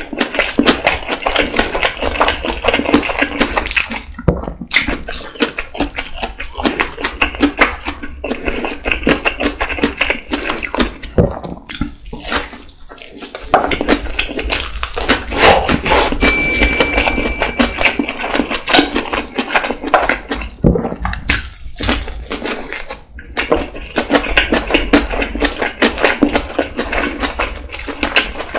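Close-miked wet chewing of tuna kimbap, the seaweed-wrapped rice and filling squelching and smacking in the mouth. Rapid wet clicks run on almost without break, with a few short pauses between mouthfuls.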